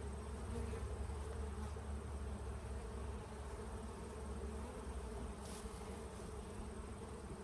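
Honeybees buzzing steadily at an open hive, an even hum with a low rumble underneath.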